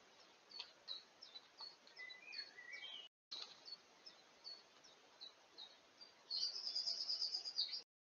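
Wild woodland birds calling: a string of short, high chirps with a brief warbled phrase, then a rapid, high trill of repeated notes lasting about a second and a half, the loudest sound. The sound drops out briefly about three seconds in.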